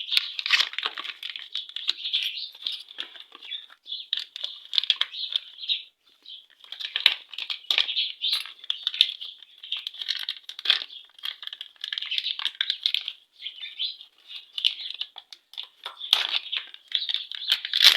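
Light clicking, rattling and crinkling of a new motorcycle timing chain being handled and fitted: many small irregular clicks with brief pauses.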